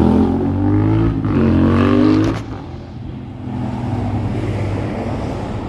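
Bus engine pulling away, rising in pitch as it accelerates, then easing off about two and a half seconds in and running on more steadily.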